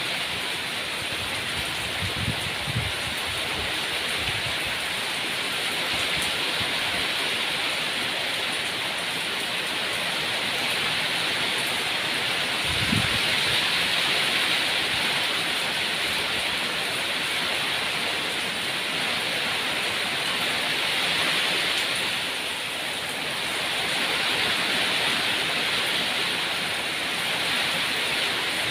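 Steady, continuous rainfall, a dense even hiss of falling rain. A few brief low thumps come about two seconds in and again near the middle.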